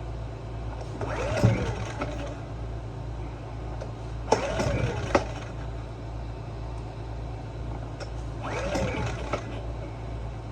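Generac GP2200i inverter generator being pull-started three times: each recoil-starter pull gives a whirring crank that rises and falls in pitch, but the engine does not catch. It is hard to start after a carburettor cleaning, and a steady low hum runs underneath.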